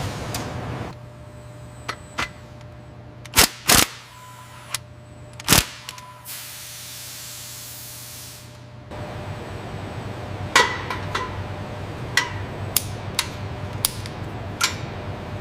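Assembly-line sound effects: a steady low hum of machinery under sharp metallic clicks and knocks from tools and parts. A hiss like escaping air runs for about three seconds near the middle.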